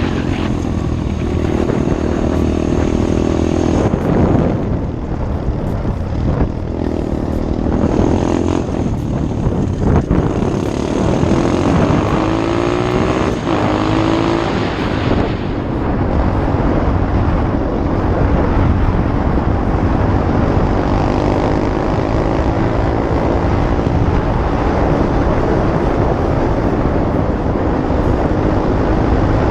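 SSR 125 pit bike's small single-cylinder four-stroke engine running under way, its pitch rising and falling repeatedly as it revs up and shifts.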